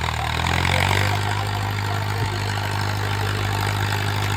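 Mahindra tractor's diesel engine revving up right at the start, then running steadily at the higher speed.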